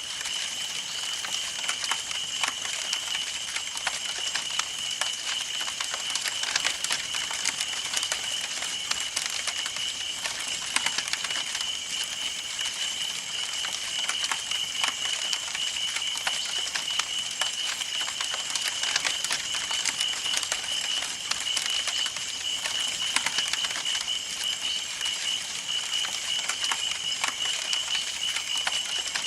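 Campfire burning, with a steady, dense crackle of small irregular pops and snaps. A constant thin high-pitched tone runs underneath.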